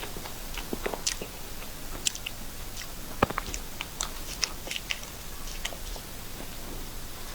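Someone chewing a mouthful of cream cake, with scattered short wet mouth clicks; the sharpest click comes a little after three seconds in.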